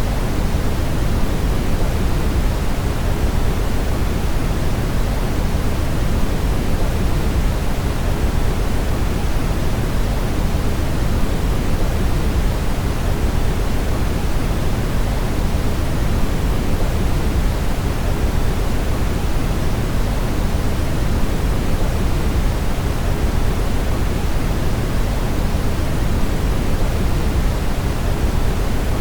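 Brown noise: a steady, unchanging rushing rumble, heaviest in the low end and thinning toward the top.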